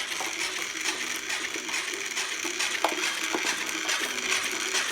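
A toy frog's mechanism running, rattling with rapid continuous clicking over a faint low hum.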